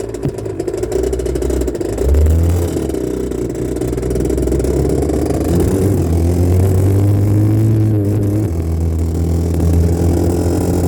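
1984 Honda CR80R's 80cc two-stroke single-cylinder engine running loud, its revs rising and falling repeatedly, picked up by a phone mounted on the handlebars.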